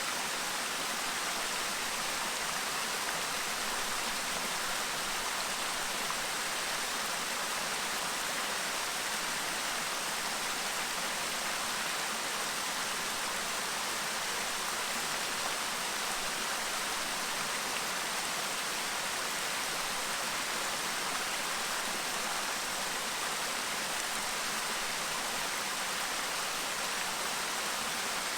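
Clear mountain stream babbling over rocks: a steady, even rushing of water with no breaks.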